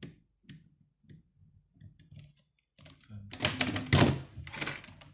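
Small clicks and knocks of parts and tester probes being handled on a workbench, then a louder stretch of rattling and clattering about three seconds in.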